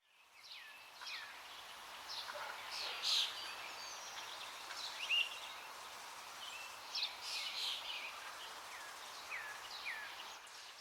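Birds chirping over a soft outdoor hiss, fading in at the start. Short, quickly falling chirps repeat irregularly throughout, with the loudest calls around three and five seconds in.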